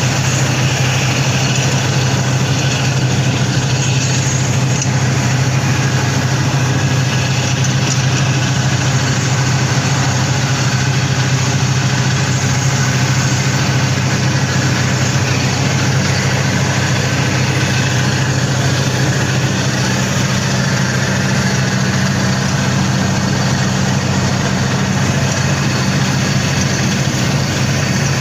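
A machine engine running steadily at constant speed, with a strong low hum and even noise above it, unchanging throughout.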